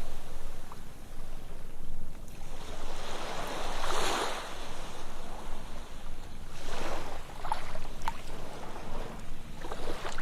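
Ocean waves breaking and washing up a sandy beach, the surf swelling twice, about four seconds in and again near seven seconds.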